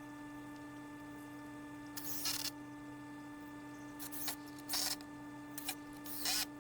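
A steady hum with several short scraping or rustling sounds, the first about two seconds in and four more in the second half.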